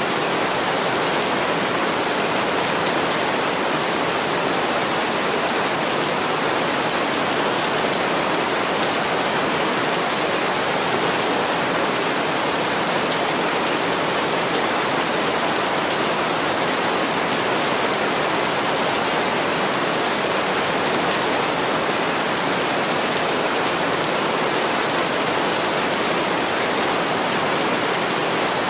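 Heavy rain pouring down on window glass: a steady, even hiss of rain.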